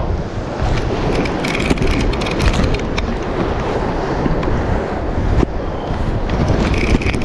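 Wind buffeting the microphone over the rush of ocean surf, with scattered sharp clicks and ticks.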